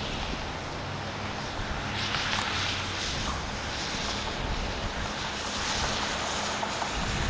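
Low steady drone of the lake freighter Alpena's engine carrying across the river, under a rushing hiss of water and wind that swells about two seconds in. Near the end the drone drops away as wind buffets the microphone.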